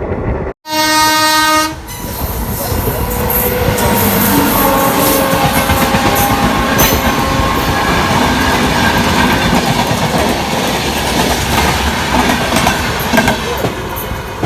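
Train horn sounding one blast of about a second near the start, then the train running steadily along the track.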